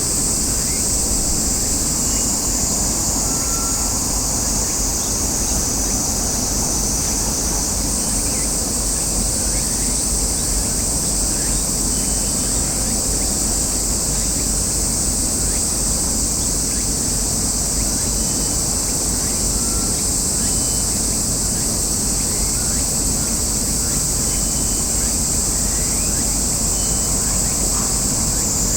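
Steady outdoor ambience: a continuous high-pitched buzz over a low, even rumble of wind and distant noise, with a few faint short chirps scattered through.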